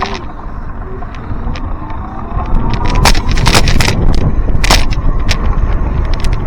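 Wind rumbling on the microphone while riding a bicycle, with sharp clicks and rattles, getting louder about two and a half seconds in.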